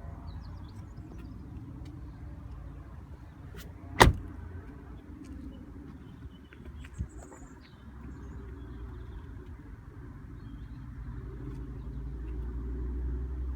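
Steady low rumble of a Ford Fiesta ST-3 heard from inside the cabin, growing louder near the end, with one sharp click about four seconds in and a softer one around seven seconds.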